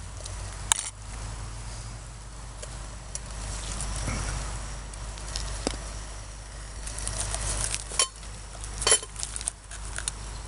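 Open campfire crackling under cooking pots, with scattered sharp pops: one about a second in and a cluster of them near the end.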